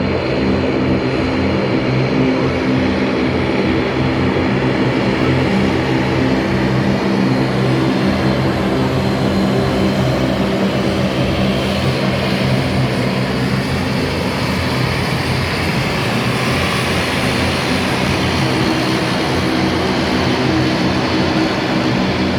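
Propeller airplane engine running steadily: an even drone of several held tones under a broad rushing noise.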